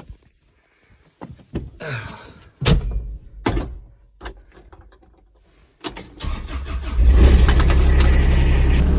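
A few knocks and clunks, then about six seconds in the Kubota's engine cranks, catches and settles into a steady, loud idle.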